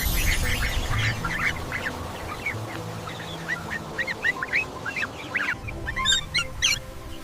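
Duckling peeping: many short, quick calls in rapid succession, thickest near the start and again near the end.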